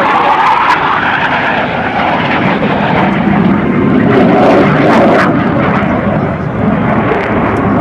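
Jet roar of Blue Angels F/A-18 Hornets flying past, building to its loudest about halfway through and then easing off.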